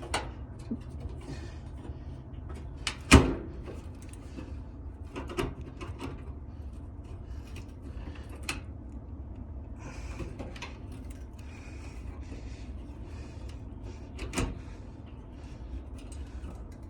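Scattered knocks and clicks, the loudest about three seconds in and another near the end, over a steady low rumble.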